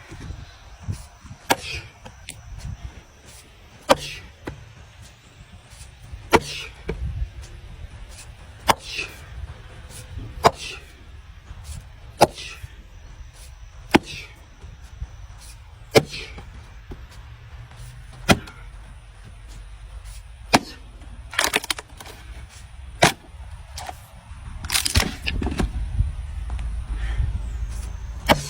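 Firewood being split by hand: sharp chops of an axe or maul into logs, about one every two seconds. A low rumble comes in near the end.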